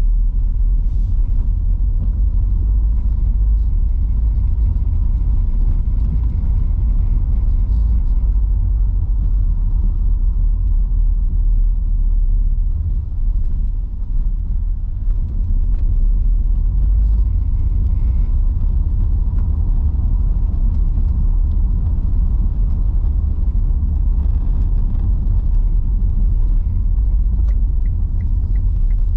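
Steady low rumble of tyres and road noise inside a car's cabin, driving on wet streets in heavy rain. Near the end there is a faint, quick, regular ticking.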